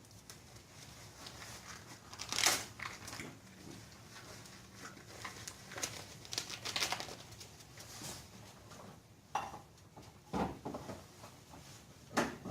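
Irregular rustling and crinkling with a few light knocks, like parts being handled and searched through.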